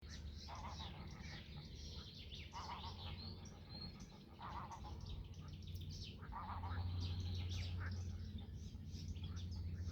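Several birds chirping and calling, with a lower call repeating about every two seconds, over a steady low rumble.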